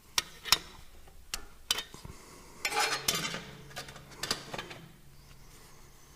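Metal tools and parts clinking and tapping, with several sharp clicks and a short scraping rub about halfway through.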